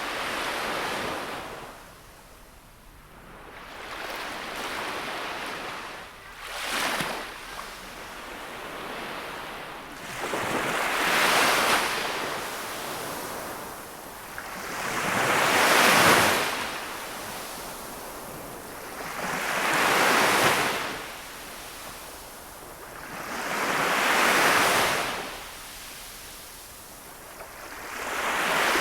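Small sea waves breaking and washing up on the shore in a slow rhythm, each swelling and falling away about every four to five seconds over a constant hiss of surf.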